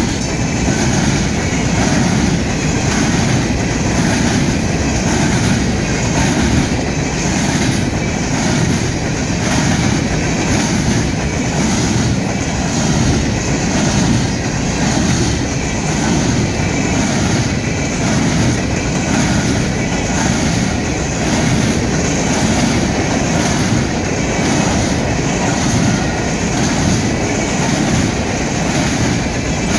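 Long CSX coal train of open-top hopper cars rolling past at steady speed: a continuous rumble of steel wheels on steel rail with a running clickety-clack as the trucks pass over the rail joints, and a thin squeal of wheels against rail.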